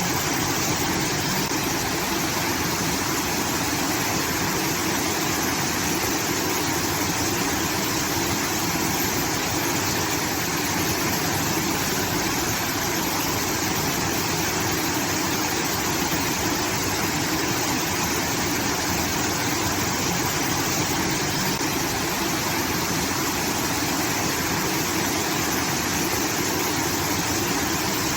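Water from a rice field irrigation channel pouring and rushing steadily, like a small waterfall, as an even, unbroken hiss.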